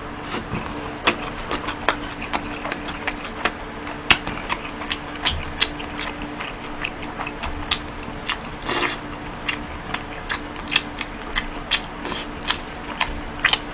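Close-miked chewing and mouth sounds of a man eating chewy tteokbokki rice cakes: irregular wet clicks and smacks, two or three a second, over a faint steady hum.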